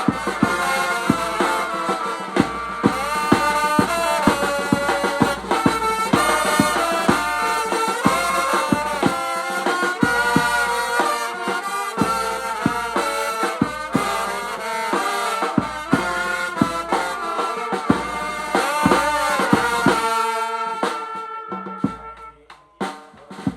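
Vietnamese funeral brass band ('nhạc tây') playing a melody over drums. The tune fades out about 21 seconds in, and a few separate drum hits follow near the end.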